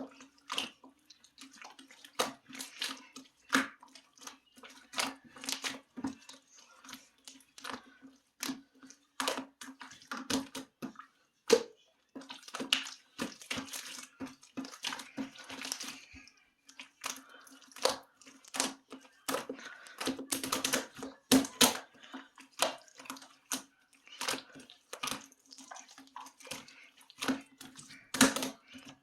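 Homemade slime being squeezed and stretched by hand, giving irregular wet clicks, pops and squelches, with a faint steady low hum underneath.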